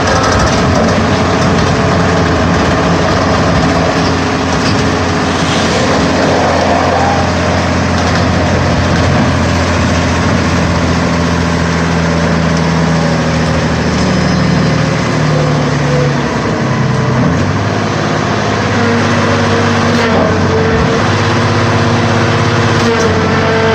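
Sierra 4200 scrap-metal baler running, its hydraulic power unit droning steadily, with the pitch of its tones shifting a few times along the way.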